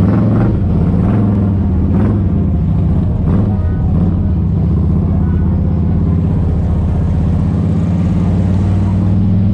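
Motorcycle engine running steadily while riding, a loud, even, low-pitched sound, with a few brief sharper sounds in the first few seconds.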